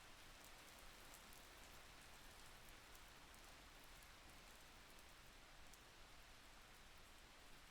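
Faint, steady rain, a soft even hiss with scattered light drop ticks.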